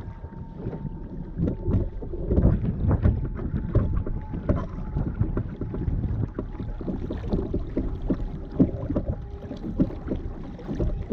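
Water slapping and splashing against the hull of a small RS Zest sailing dinghy as it moves, in irregular knocks over a low rumble, with wind buffeting the microphone.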